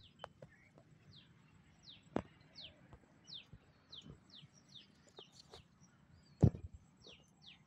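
A bird repeats a short, high note that slides downward, about two a second, with a brief pause late on. Scattered clicks and knocks sound underneath, the loudest a sharp knock about six and a half seconds in.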